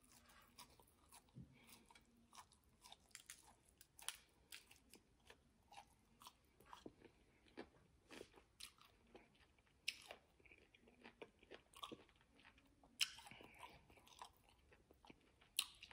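Faint close-miked chewing of a mouthful of cooked asparagus: soft irregular crunches and wet mouth clicks, with a brief louder patch about thirteen seconds in.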